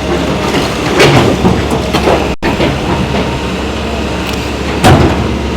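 An engine running steadily under loud knocks and clatters from demolition work, about a second in, around two seconds and again near the end.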